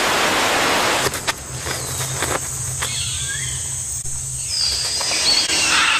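Forest ambience: birds calling with short whistled glides over a steady hiss and a low hum, with scattered light clicks.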